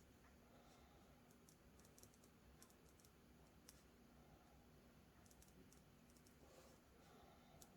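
Near silence: room tone with a faint steady low hum and scattered faint clicks.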